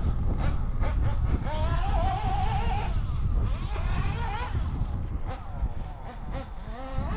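Ielasi nitro RC car engine running and revving, its pitch rising and falling, and growing somewhat quieter in the second half before a quick rise near the end.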